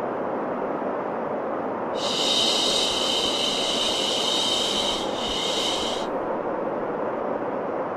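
Steady white noise for baby sleep: an even, full rushing sound. A brighter, higher hiss joins it about two seconds in and drops out about six seconds in.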